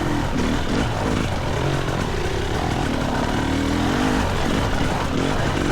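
GasGas EC300 single-cylinder two-stroke dirt bike engine being ridden, its pitch rising and falling over and over as the throttle is worked on the trail.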